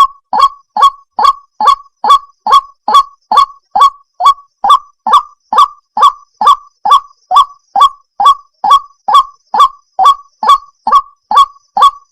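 White-breasted waterhen (ruak-ruak) calling: a long, even series of short, loud, honking notes, about two and a half a second, each dropping quickly in pitch.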